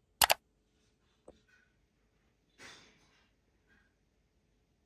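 A single sharp click about a quarter of a second in, then a quiet room with a faint tick and one soft breath a little past halfway.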